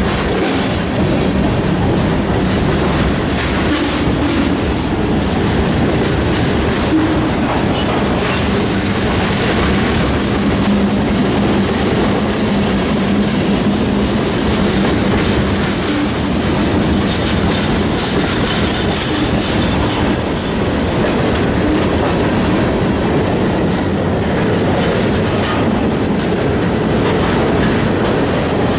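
Freight train rolling past, its wheels clattering over the rail joints in a steady clickety-clack.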